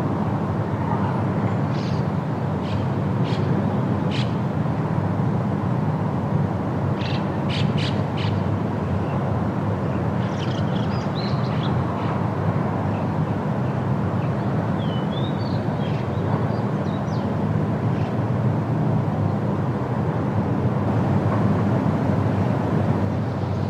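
Steady wind in a forest, a constant low rushing noise, with birds giving short high chirps in a few scattered bursts.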